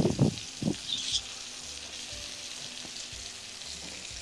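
Dredged chicken cutlets frying in a skillet, a steady sizzle.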